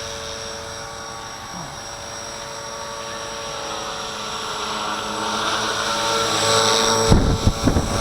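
Walkera V450D01 electric RC helicopter hovering, a steady motor-and-rotor whine that grows louder over the last few seconds. About seven seconds in, gusts buffet the microphone with a low rumble.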